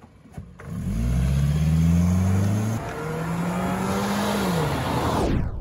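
A Toyota Camry's 2.4 L four-cylinder and a Toyota Sienna's 3.0 L V6 accelerating hard from a standing start in a drag race. The engine note climbs, drops once about three seconds in as a gear changes up, climbs again, then falls away. The sound cuts off abruptly near the end.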